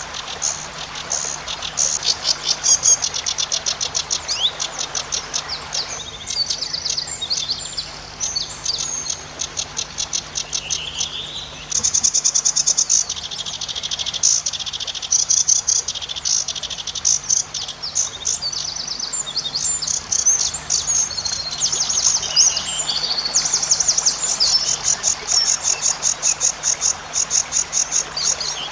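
Zitting cisticola (cici padi) singing: long runs of rapid, high, buzzy trills and chattering notes, one run following another with short breaks.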